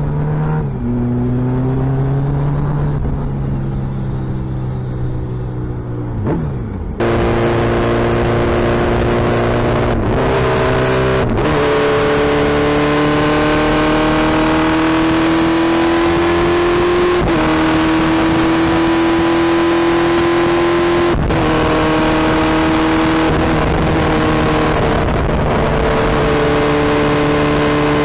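Suzuki Hayabusa inline-four motorcycle engine running under way, its pitch climbing slowly and shifting at several gear changes. Wind rush joins in from about seven seconds on.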